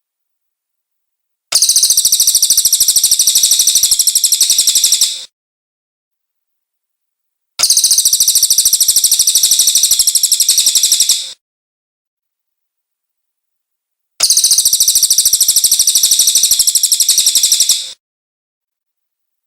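Cililin bird singing three bouts of a rapid, high-pitched trill of quickly repeated notes, each about four seconds long, with silent gaps between them.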